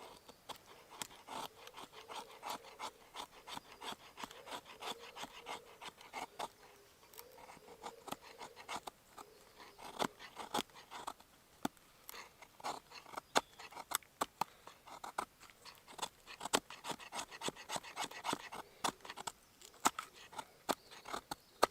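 A knife blade shaving thin curls off a pine stick for fire tinder: repeated short scraping strokes of steel on wood, several a second at times, with sharp clicks as the blade bites.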